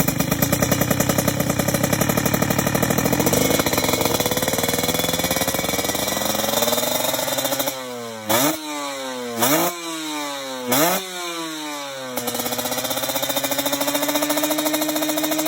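Two-stroke Kawasaki Ninja 150 engine running through an aftermarket expansion-chamber exhaust with a carbon silencer, a raspy, crackly drone. The revs climb slowly, then the throttle is blipped three times in quick succession about halfway through, and the engine settles into a steady raised rev that creeps upward.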